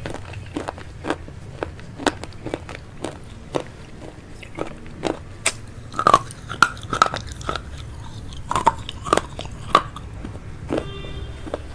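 Close-miked eating of veg chowmein noodles: chewing with a steady run of sharp mouth clicks and smacks, two or three a second.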